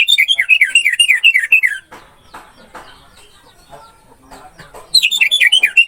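Orange-headed thrush (anis merah) singing a loud, rapid phrase of about nine falling notes, lasting just under two seconds, then repeating it about five seconds in. Fainter bird chatter fills the gap.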